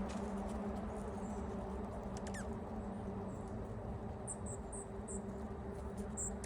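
Small wild birds giving short, very high chirps: one quick falling note, then a run of brief chirps a little past the middle. A steady low hum runs underneath.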